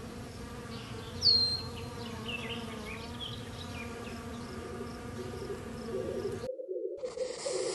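Wasp buzzing steadily, with a short, loud, high chirp falling in pitch about a second in and a few fainter chirps after it. The buzz breaks off briefly near the end.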